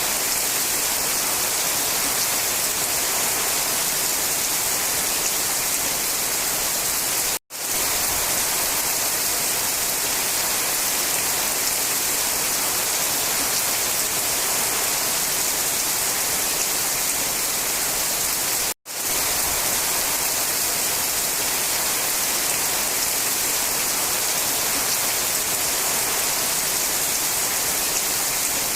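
Steady rain falling, an even dense hiss. It cuts out for a split second twice, about a third and two thirds of the way through.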